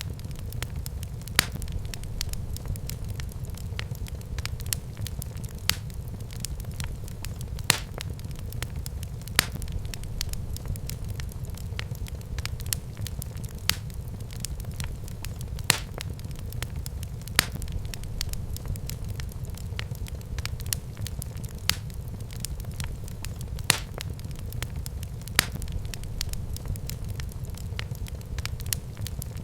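Fireplace fire crackling, with sharp pops every second or two over a steady low rumble of the flames.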